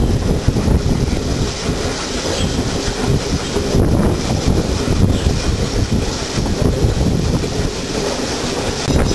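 Steam train running along the line, its wheels on the rails heard from on board close to the locomotive, with the rush of wind on the microphone.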